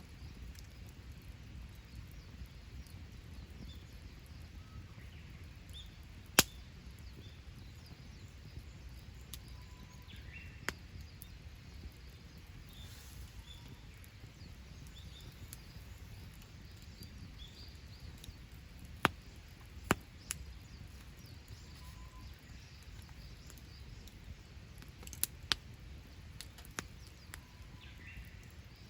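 Wood campfire burning with a low steady rush and a handful of sharp pops and cracks, the loudest about six seconds in. Faint bird chirps in the background.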